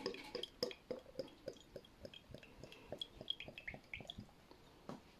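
Faint, irregular crackle of small ticks and pops from a freshly poured beer's head fizzing in the glass, with a few short high chirps of popping bubbles about three to four seconds in.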